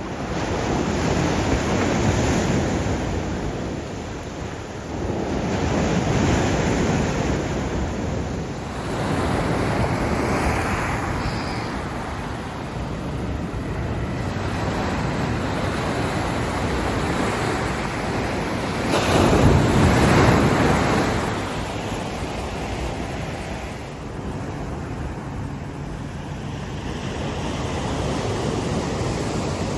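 Sea waves breaking and washing on a shore: a rushing noise that swells and fades every few seconds, with one louder wave near two-thirds of the way through.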